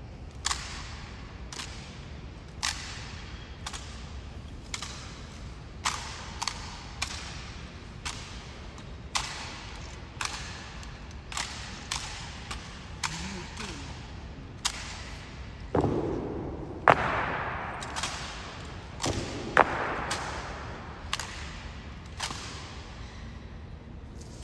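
Honor guard rifle drill: sharp slaps and clacks of rifles being spun, struck and caught, about one a second. Two louder catches past the middle are each followed by a brief burst of crowd noise.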